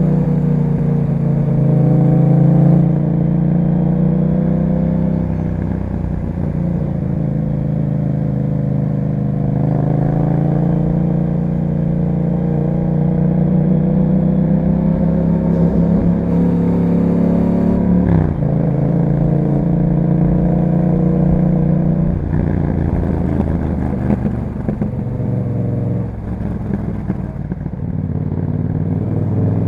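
Yamaha MT-07's parallel-twin engine through an Akrapovic exhaust with a dB killer, heard while riding. The engine note rises and falls with the throttle, with a quick break and fresh rise in pitch about eighteen seconds in, like a gear change.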